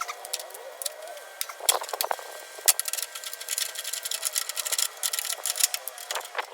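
Hand tools working on the engine's metal cooling tins and fasteners: a run of quick, irregular metallic clicks, with a few sharper knocks about two and three seconds in.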